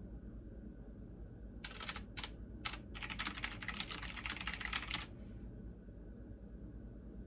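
Computer keyboard typing: a few short strokes, then a quick continuous flurry of keystrokes lasting about two seconds that stops about five seconds in. A low steady hum runs underneath.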